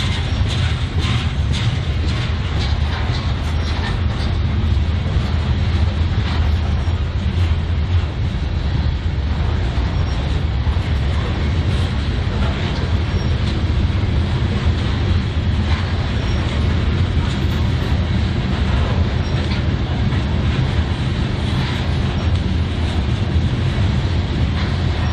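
Railcars rolling past at a steady pace: a continuous low rumble with the clicking of wheels over rail joints.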